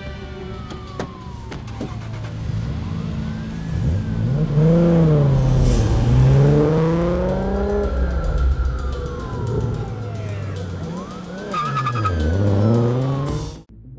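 Cars speeding past with police sirens wailing, the engine pitch sweeping up and then down as each one passes, twice. The sound cuts off suddenly near the end.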